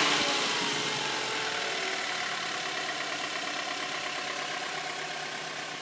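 A 2002 Honda Accord's engine falls back to idle after a brief rev and runs steadily, getting gradually quieter. Faint steady high tones run above it, which fits the squeak that appeared in the engine bay after a new clutch kit was fitted and that goes away when the clutch pedal is pressed.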